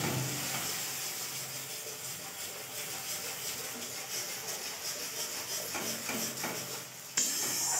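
Onion, tomato and garlic masala paste sizzling as it fries in oil in a kadai, with the spatula scraping and stirring it in the pan. The sizzle is a steady hiss that gets suddenly louder near the end.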